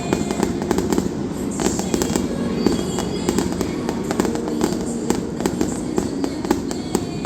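Fireworks display going off in rapid succession: many sharp bangs and crackles throughout, with music playing underneath.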